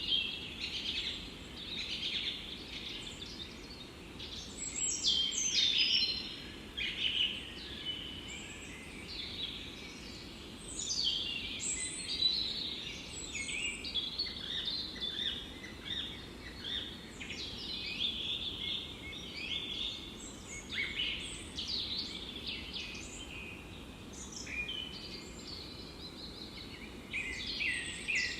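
Chorus of several songbirds singing and chirping at once, with many overlapping quick trills and chirps, over a faint steady background hiss.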